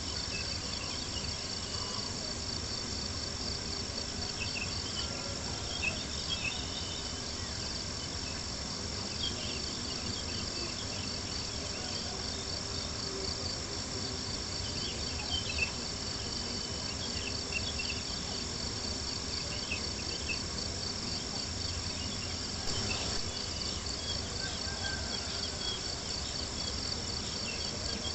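Crickets trilling steadily in a high, finely pulsing chorus, with scattered faint pops and crackles from a campfire.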